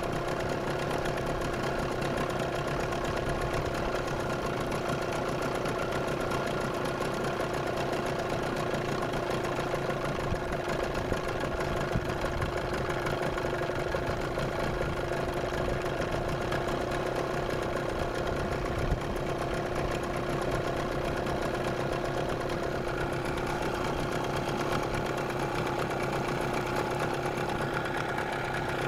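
A 9.8 hp outboard motor running steadily with a whistle in its sound, a fault whose cause the owner does not know.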